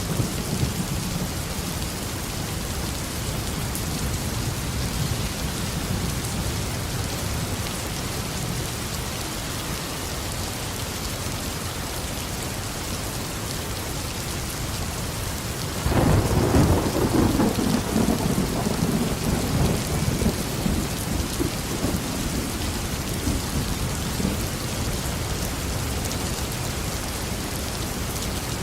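Tropical rain falling steadily with low thunder rumbling underneath. About halfway through, a louder clap of thunder breaks suddenly and rolls away over several seconds.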